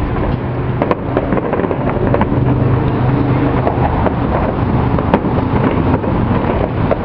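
Distant fireworks going off, with a few sharp bangs about one second in and again about five seconds in. Under them runs a steady low rumble of vehicle traffic.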